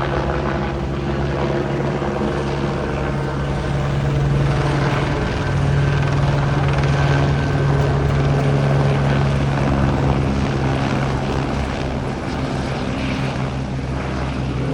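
Helicopter rotor and turbine engine running steadily overhead, a constant pitched hum with rotor noise, getting a little louder in the middle.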